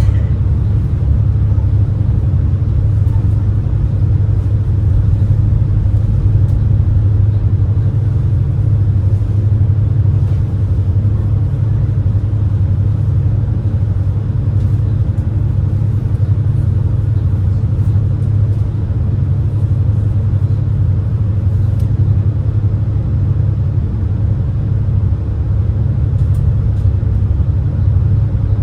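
Steady low engine rumble of the Super Jet high-speed passenger boat under way, heard from aboard.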